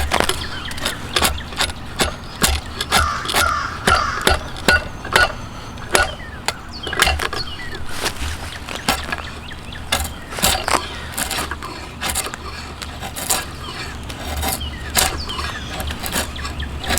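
Irregular sharp knocks and clicks of hand tools working a yew bow stave, with a crow cawing in the background about three to four seconds in.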